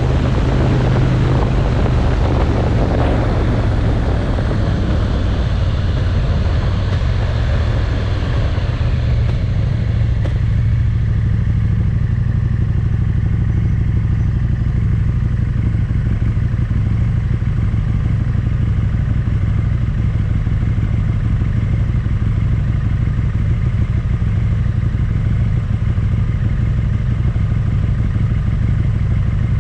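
Motorcycle engine with wind rush over the microphone that dies away about ten seconds in, after which the engine is idling steadily.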